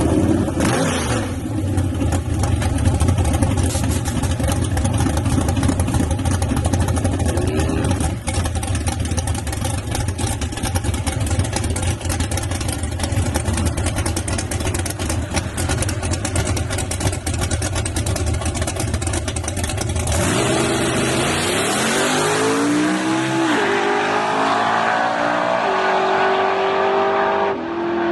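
Drag-racing pickup truck engine running loud and deep and held steady for about twenty seconds. Then it launches hard, rising in pitch through several gear changes.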